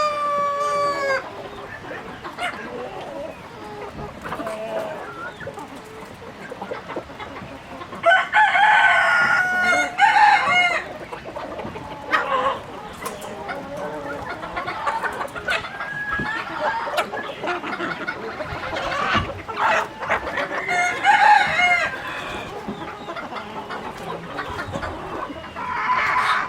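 Chickens calling: roosters crow several times, loudest about eight to eleven seconds in and again around twenty-one seconds, over steady clucking from hens.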